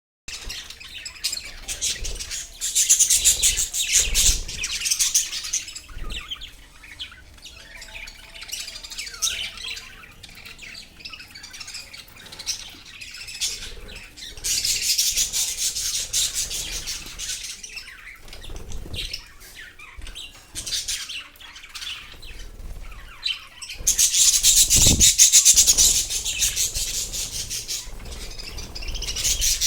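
Budgerigars chattering and chirping, in dense, high-pitched warbling spells that swell three times and thin to scattered chirps in between, with a few low thumps.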